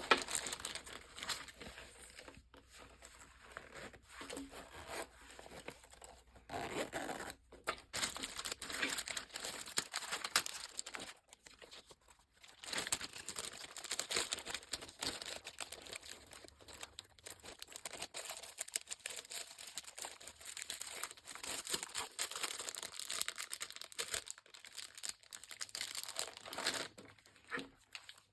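Packaging being crinkled and torn by hand, irregular crackling and rustling in short spells with brief pauses, as a parcel is unwrapped.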